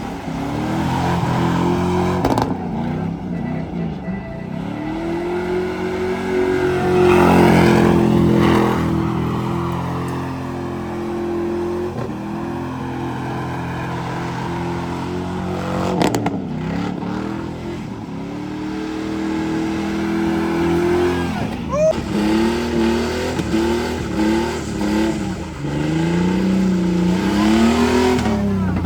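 A car engine revving hard, held high for several seconds and then let back down. It revs again partway through, then blips up and down in a quick series of short revs near the end.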